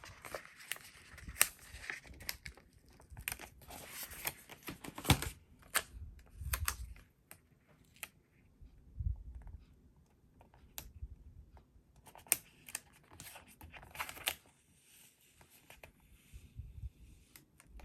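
Paper stickers and journal pages being handled: rustling, crinkling and light taps as stickers are peeled and pressed on, with a quieter stretch in the middle.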